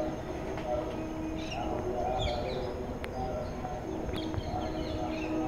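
Small birds chirping in short clusters of calls, over a steady low hum and outdoor background noise.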